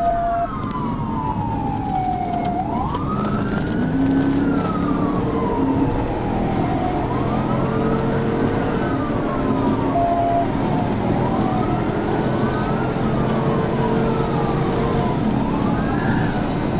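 Police cruiser siren wailing in slow rising and falling sweeps a few seconds apart, over the steady road noise of the cruiser driving at high speed in pursuit.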